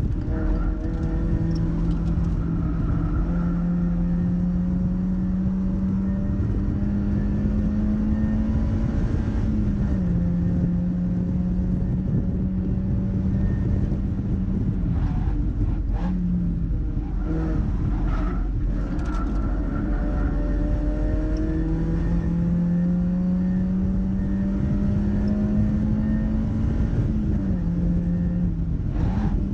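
Mazda MX-5's four-cylinder engine pulling hard on track, its note climbing slowly for several seconds and then dropping, twice over. A few brief knocks come in the middle, under a steady rush of wind and tyre noise.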